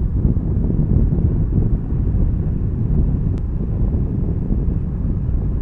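Wind noise rushing over a motorcycle rider's microphone at riding speed, a steady low rumble with the bike's engine and road noise mixed in.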